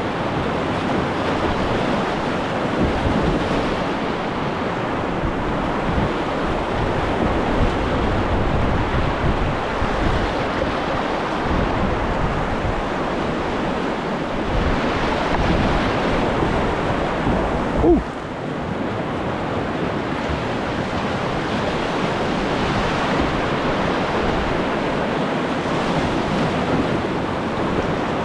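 River whitewater rushing steadily, with one brief sharp sound about two thirds of the way through.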